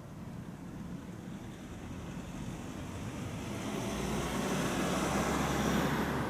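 Jet airliner passing low overhead: its engine noise builds steadily over several seconds with a low rumble, and a high whine slides down in pitch near the end.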